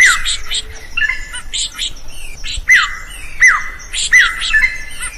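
A drongo singing: clear whistles that drop sharply in pitch, repeated four or five times, mixed with harsh, scratchy notes.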